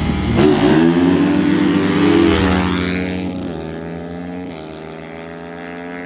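Dirt bike engine running hard, its pitch rising and then sliding down as it fades away, with a further drop in pitch about four and a half seconds in.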